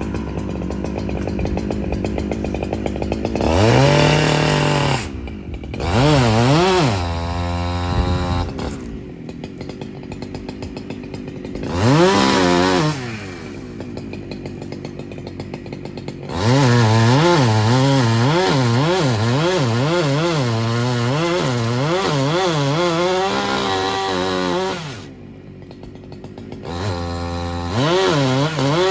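Chainsaw running at high revs with its pitch rising and falling over and over, as when working through a cut, settling back to idle twice for a few seconds in between.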